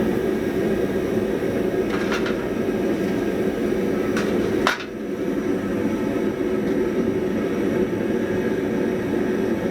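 Steady roar of a blacksmith's forge running, with a few light clicks, the sharpest about halfway through.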